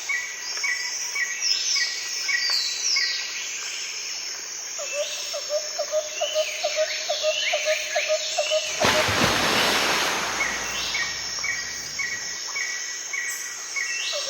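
Small birds chirping and calling in quick, repeated notes, with a fast ticking call in the middle. About two-thirds of the way through a loud, even rushing noise comes in under the calls.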